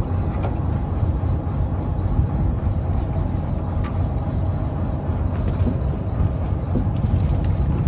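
Fishing trawler's diesel engine running steadily, a constant low drone, with a few light knocks on board.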